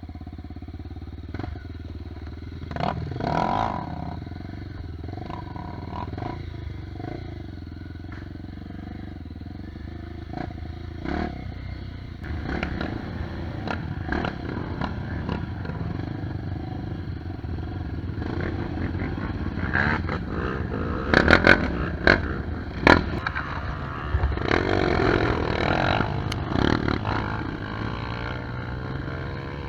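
Off-road trail motorcycle engine running and revving, with clatter and several sharp knocks, the loudest coming in a quick cluster about two-thirds of the way through.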